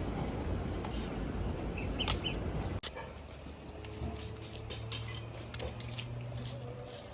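Domestic fowl calling in short bursts over a steady low hum that starts about four seconds in, with an abrupt break a little before three seconds in.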